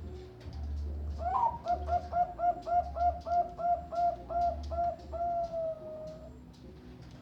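Zebra dove (perkutut) of the Bangkok song strain cooing. It gives a quick even run of about a dozen short notes, then one long drawn-out final note.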